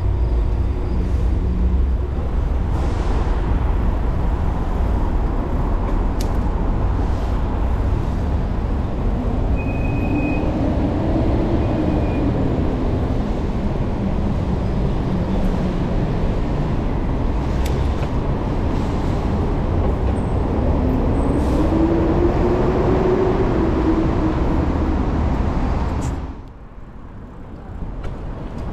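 Busy city road traffic: a steady low rumble with heavy vehicles passing, their engine notes rising and falling twice. The rumble drops off suddenly near the end.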